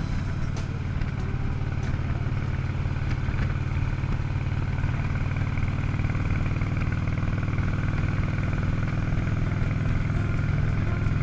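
Harley-Davidson Ultra Classic's V-twin engine running steadily at cruising speed, with wind and road noise over it.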